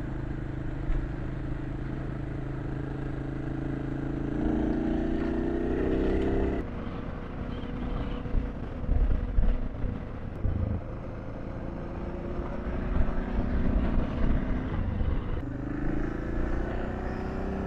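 Suzuki DR650's single-cylinder engine under way. Its pitch climbs as it accelerates and drops suddenly at a gear change about six and a half seconds in, then climbs again near the end, over steady wind noise.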